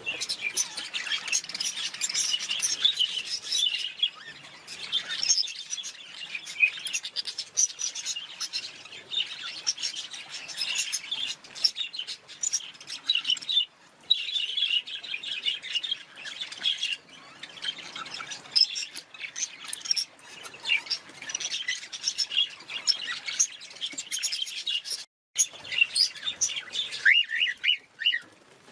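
Budgerigars chattering: a dense, continuous stream of quick high chirps and warbles, with a brief break near the end.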